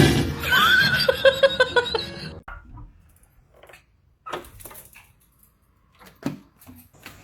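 A pet animal's drawn-out call, rising a little in pitch, lasting about two seconds, followed by a few soft knocks.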